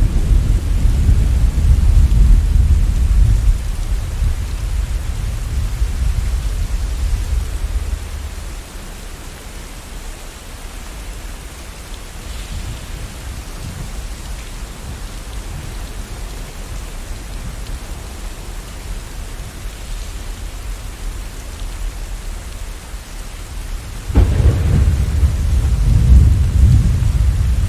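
Steady rain with thunder: a long low rumble that dies away about eight seconds in, leaving only the rain, then a sudden loud crack of thunder near the end that rolls on.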